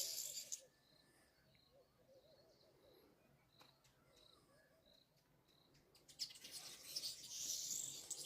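Many small birds chirping together at the start and again from about six seconds in. Between, one bird repeats a short high note every half second or so.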